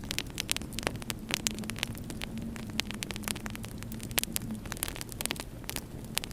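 Wood fire in a fireplace crackling: many irregular sharp pops and snaps over a low rumble, with a steady low hum underneath.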